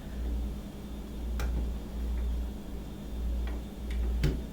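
A few sharp plastic clicks as parts of a Hamilton Beach milkshake maker are pressed and fitted into place, the loudest near the end, over a low rumble that swells and fades.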